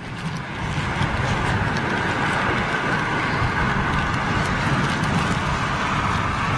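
Heavy rain battering down around the microphone: a dense, steady hiss with a low rumble under it, building over the first second and then holding.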